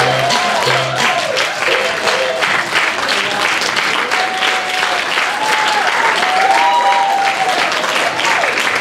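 Audience applauding steadily, with a few voices calling out over the clapping. The last notes of the music end about a second in.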